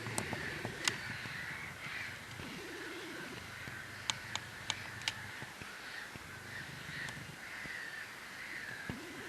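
Harsh, crow-like cawing calls from several birds, repeating over one another, with a few sharp clicks about four to five seconds in.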